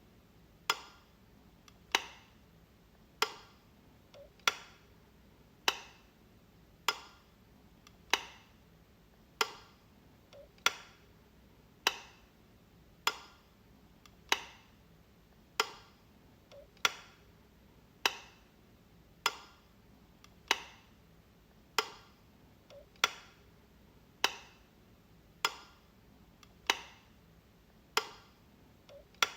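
Light switch being flicked again and again: one sharp click about every 1.2 seconds, evenly paced.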